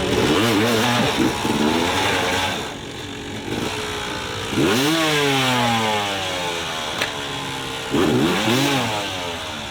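Off-road motorcycle engine revving in repeated bursts, the pitch jumping up and falling away four or five times, with one longer rev about halfway through that winds down slowly.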